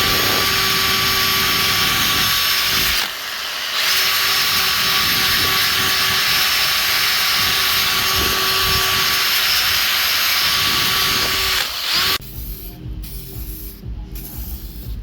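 Power tool running at a steady speed with a high whine, stopping for a moment about three seconds in, then starting again and cutting off about twelve seconds in.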